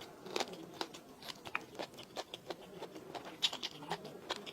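Close-up eating sounds: a person chewing and biting food, with irregular wet clicks and small crunches several times a second.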